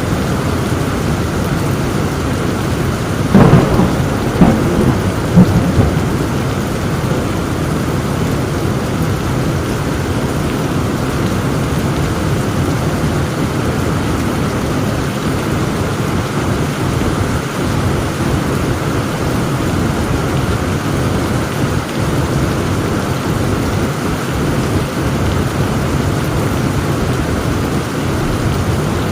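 Heavy rain falling steadily, with a thunderclap about three seconds in: a sharp crack followed by a few more cracks over the next two seconds before the rain alone carries on.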